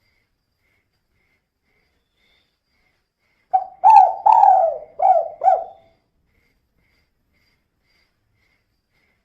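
Female spotted dove cooing: a single phrase of about five quick coos starting about a third of the way in, followed by silence.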